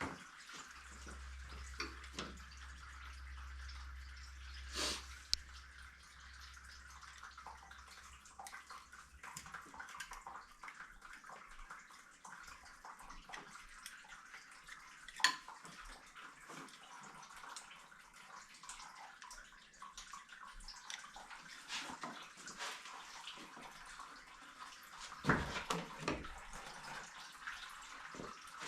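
Engine coolant running out of a 1999 Ford Mustang's radiator hoses and splashing steadily into a drain pan, with a few sharp clicks, the loudest about halfway through.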